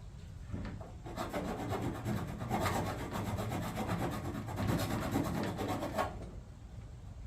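Hand file scraping back and forth over freshly drilled bolt holes in an aluminum box, deburring them, in quick repeated strokes that start about a second in and stop about six seconds in.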